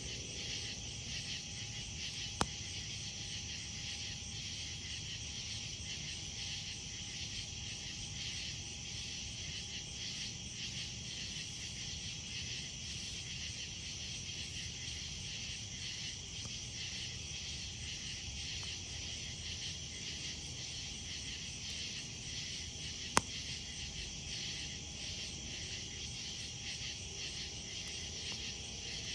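Steady night chorus of insects, crickets among them, chirring without a break over a low, even campfire rumble. Two sharp pops from the burning wood: one about two seconds in, and a louder one near the end.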